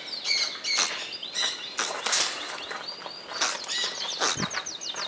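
A bird's laughing call: fast runs of short, high chirps, each falling in pitch, about eight a second, mixed with several harsh squawks.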